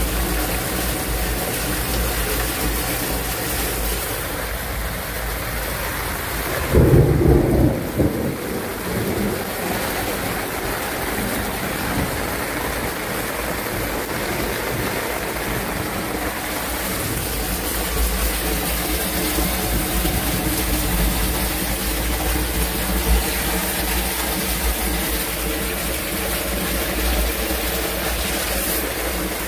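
Torrential rain pouring steadily during a thunderstorm, with a loud burst of thunder about seven seconds in.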